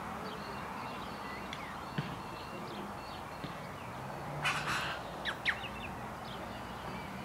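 Birds calling: scattered short, faint high chirps, with a louder, harsher call about four and a half seconds in, over a steady outdoor background hiss.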